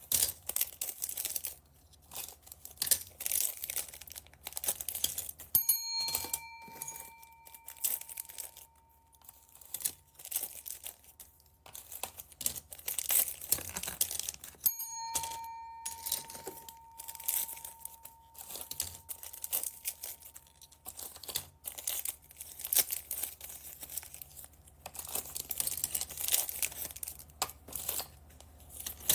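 Plastic bags crinkling and tearing as they are handled and opened, with many small irregular rustles and clicks. Twice, a bright bell-like ding rings out and fades over a couple of seconds.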